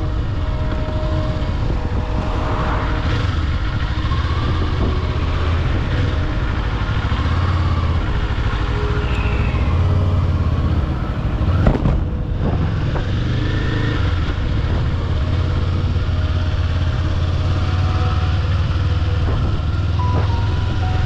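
Kawasaki Eliminator 500's parallel-twin engine running steadily at a cruise, under wind and road rush. About twelve seconds in there is a brief louder bump or gust.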